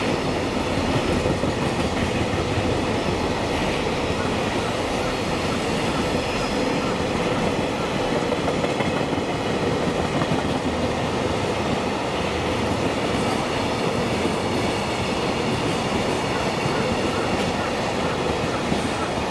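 Freight train of container flat wagons rolling past, a steady noise of steel wheels running on the rails.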